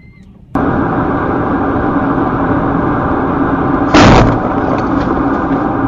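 Loud, steady vehicle noise that starts abruptly about half a second in, with one short, sharp bang about four seconds in, the loudest moment.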